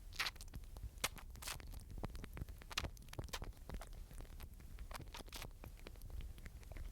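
Squirrel scratching, pattering and nibbling close to the microphone: irregular quick clicks and scratches over a steady low rumble.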